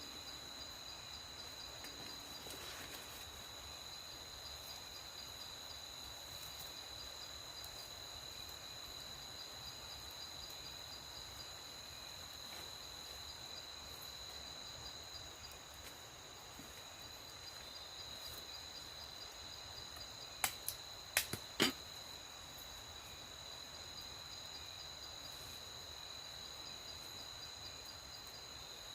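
Night insects, crickets or similar, trilling in a steady, high-pitched chorus with a faint pulsing chirp above it. About two-thirds of the way through, a quick run of four or five sharp cracks or snaps stands out above the chorus.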